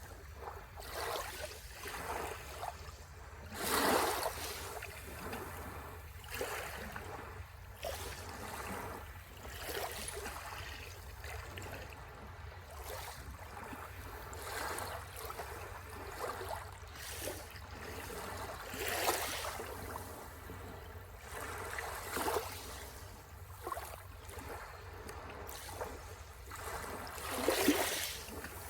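Small sea waves washing and splashing at the shore, the wash rising and falling irregularly, with several louder splashes, the loudest near the end. A steady low rumble runs beneath.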